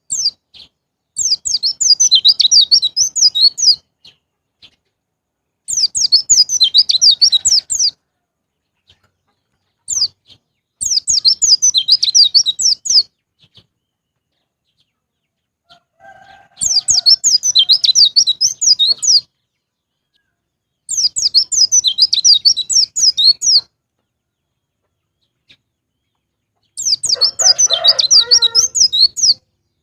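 White-eyes (pleci) singing rapid, high twittering phrases in six bursts of about two to three seconds each, with short pauses between them. A rooster crows under the last burst near the end.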